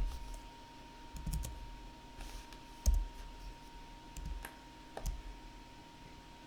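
A handful of irregular clicks from a computer mouse and keyboard, each with a dull thump, over a faint steady high tone.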